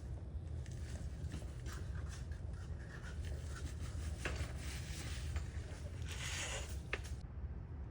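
Hands working on the engine bay of a car under repair: light scraping and rubbing with a few sharp clicks and a brief rustle about six seconds in, over a steady low hum.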